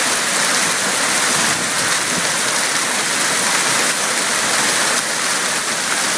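Dime-size hail and heavy rain pelting down on hard surfaces in a dense, steady patter.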